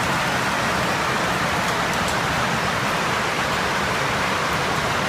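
Steady, unbroken rushing noise of a heavy rainstorm.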